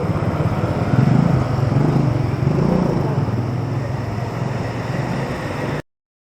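A motor vehicle's engine running amid street ambience, swelling about a second in, then cutting off suddenly near the end.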